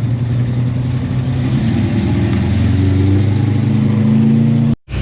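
A car engine running, its pitch rising steadily over the last few seconds as the revs climb, then cut off suddenly near the end.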